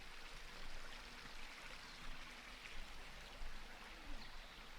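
Creek water flowing steadily, a faint, even rushing.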